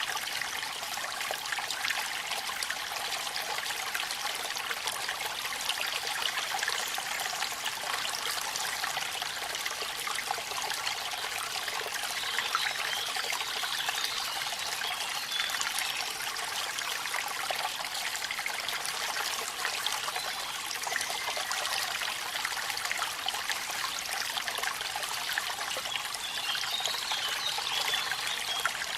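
Waterfall and rain: water running and splashing steadily, with a dense patter of small drops.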